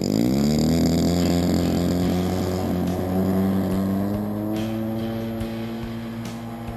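DLE 20cc two-stroke gas engine on an RC model plane throttling up sharply, then running steadily at high power and slowly growing fainter.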